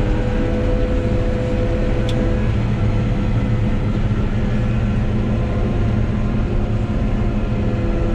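John Deere 9760 combine running steadily at a constant speed, a continuous engine and machinery drone with a steady hum.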